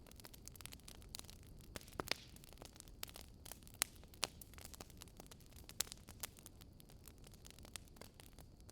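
Wood fire crackling: irregular sharp pops and snaps over a low steady hiss, with a few louder pops about two, four and six seconds in.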